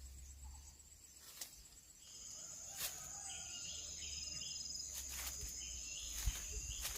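A faint outdoor background in which a steady, high-pitched insect drone comes in about two seconds in and holds, with a few light clicks and ticks scattered through it.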